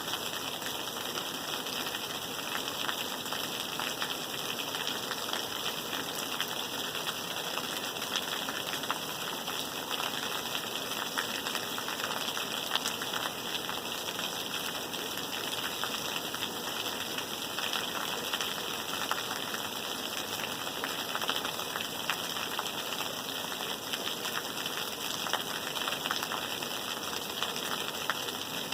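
Steady rain, an even hiss of falling rain with many small drop ticks, unchanging throughout.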